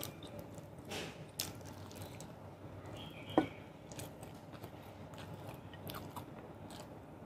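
Close-miked chewing and eating of chicken thigh and rice: wet mouth sounds with scattered small clicks and smacks, and one sharp, louder click about three and a half seconds in.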